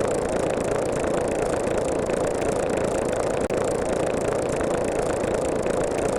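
A steady, engine-like rumbling noise played as a loop, with a brief break about three and a half seconds in where the loop restarts.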